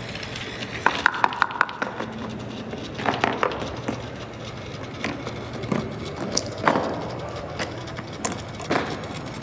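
Dominoes and small chain-reaction pieces clicking and clattering: a quick run of clicks about a second in, then scattered knocks and rattles.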